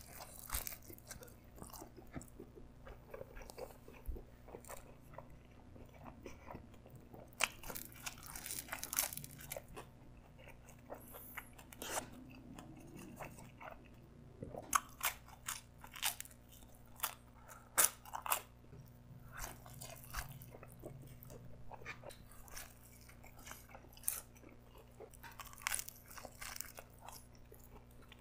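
A person chewing and biting pepperoni pizza crust, with irregular crunches and mouth sounds spread through the whole stretch.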